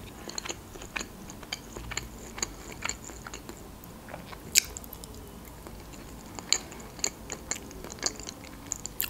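A person eating slices of ripe avocado: many small mouth clicks and chewing noises, with one sharper click about four and a half seconds in.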